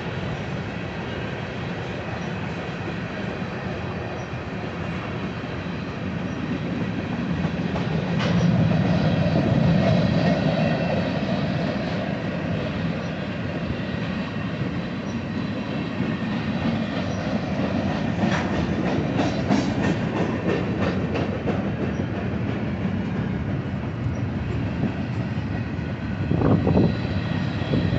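Freight train cars rolling past on the track: a steady rumble of wheels with clickety-clack over the rail joints. The rumble swells about a third of the way in, there is a run of sharp clicks a little past the middle, and a louder knock comes near the end.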